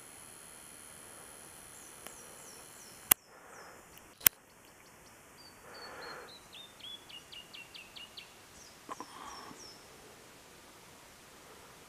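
Bush ambience with small forest birds calling in quick runs of short, falling chirps. About three seconds in, two sharp clicks a second apart are the loudest sounds, and a steady high whine stops at the first of them. A couple of faint rustles follow.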